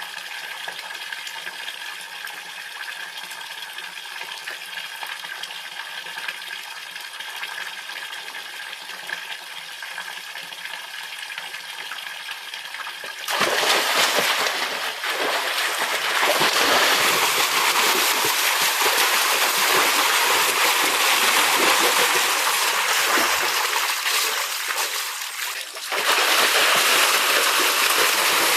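Water flowing and splashing: a quieter steady trickle at first, then a sudden, much louder rush of gushing water about halfway through that keeps going, with a short break shortly before the end.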